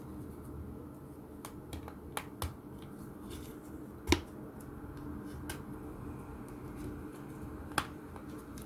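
Scattered light clicks and taps of a smartphone being handled and opened by hand, about half a dozen in all, the loudest about four seconds in.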